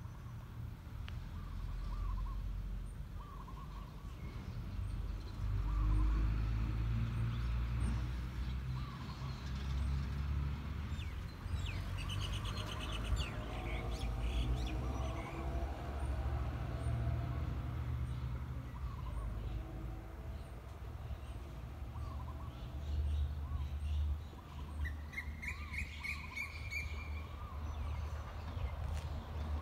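Small birds chirping and calling: short chirps repeat every second or two, with a livelier bout of chirping about halfway and a short rising call near the end, over a low rumble.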